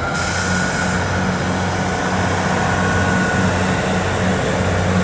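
Diesel engines of a Castle Class HST's power cars running as the train approaches: a steady low drone that swells and fades in slow pulses, growing louder. A brief hiss comes in the first second.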